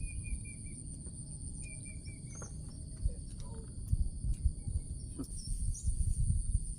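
Insects trilling steadily, with a short chirping bird call twice in the first couple of seconds, over a low rumble.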